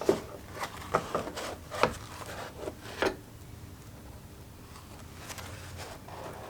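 Carburetor parts and tools being handled on a workbench: a run of light knocks and clicks in the first three seconds, then only a low steady hum.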